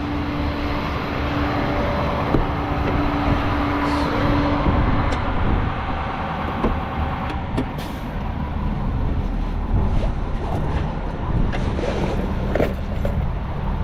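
Tow truck driving on the road: a steady engine and road rumble, with a steady hum that stops about four and a half seconds in, and a few short clicks.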